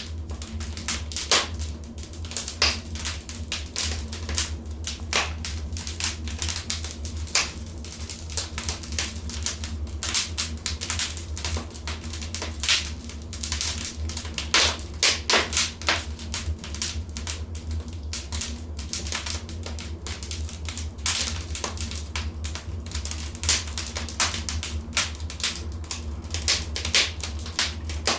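Wood fire in a fireplace crackling, with irregular sharp pops and snaps over a steady low rumble. The pops come thicker and louder for a couple of seconds about halfway through.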